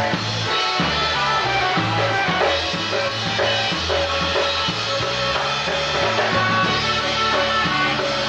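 Live polka band playing a tune, with drums and a bass line that steps from note to note under the melody.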